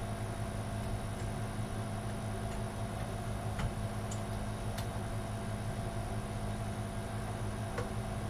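Steady background hum with a thin high whine, broken by a few faint clicks and taps as computer parts and a ribbon cable are handled.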